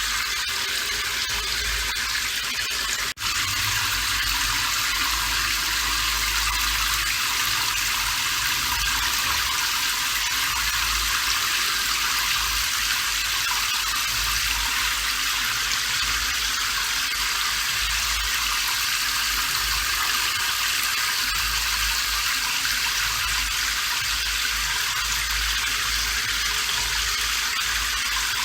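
Steady rain falling, an even hiss with a low rumble underneath, broken by a momentary dip about three seconds in.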